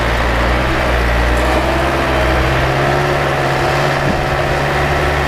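Vehicle engine running steadily with a low, even note that holds throughout.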